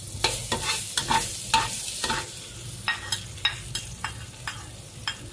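Sliced lemongrass sizzling in hot oil in a wok, with a metal ladle clicking and scraping against the bowl and the wok about three times a second.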